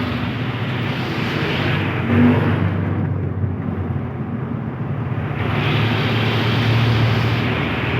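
Highway traffic passing close by: engine hum and tyre noise from trucks, swelling twice as vehicles go past.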